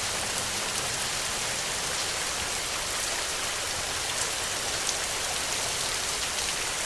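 Steady rain falling: an even hiss with scattered, sharper drop ticks.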